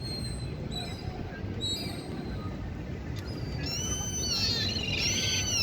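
Gulls calling: a few short calls early on, then from about halfway a run of repeated rising-and-falling calls that grows louder, with several birds overlapping near the end, over a steady low background rumble.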